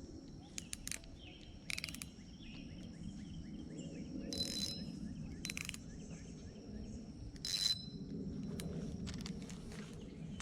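A fishing reel clicking in several short bursts, each under half a second, over a steady low rumble of wind. Birds chirp faintly in the background.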